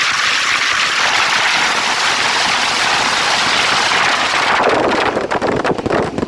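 Fireworks barrage: firecrackers going off so fast that they merge into one continuous dense crackle, which thins into separate sharp bangs in the last second or so.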